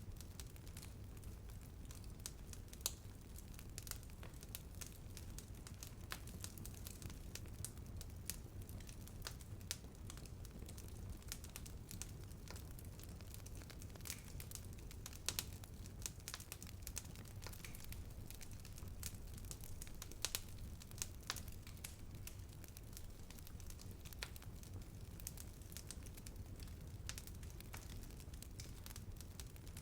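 Wood fire burning, with a low, steady rumble under irregular sharp crackles and pops; a few louder pops stand out.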